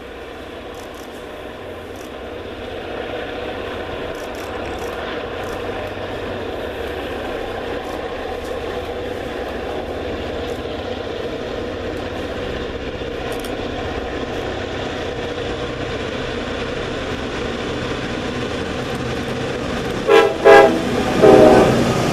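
Reading and Northern diesel-hauled passenger train approaching, its engine and rail noise growing louder over the first few seconds and then holding steady. Near the end, as the locomotive passes close by, its horn sounds three blasts: two short and one longer.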